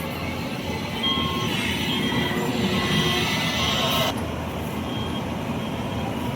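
Combine harvester running steadily, its engine and machinery making a continuous mechanical noise that grows louder from about one second in and drops back after about four seconds.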